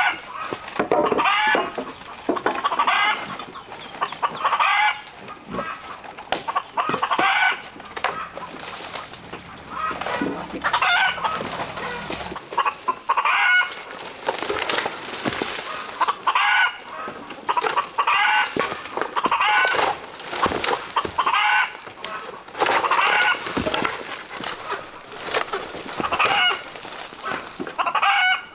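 Chickens clucking repeatedly, a short call every second or two.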